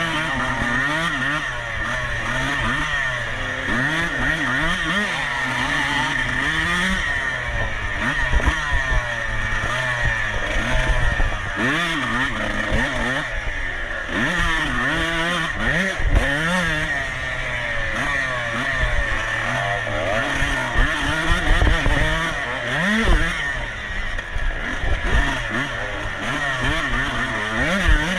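Dirt bike engine revving up and down continually as it is raced, its pitch rising and falling with each burst of throttle, with scattered low thumps.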